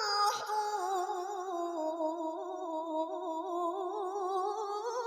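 A woman's voice in Qur'an tilawah, holding one long drawn-out note with a rapid wavering ornament. The note slides slowly lower, then climbs again near the end.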